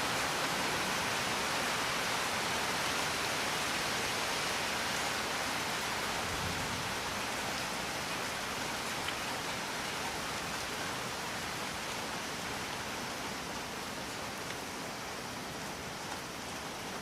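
Steady rain falling, a continuous even hiss with no distinct drops standing out, growing slightly softer near the end.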